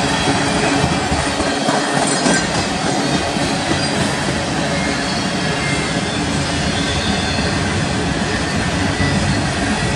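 Freight cars of a passing manifest train, tank cars and covered hoppers, rolling by on steel rails: a steady, loud rumble and rattle of wheels on track, with faint high wheel squeal.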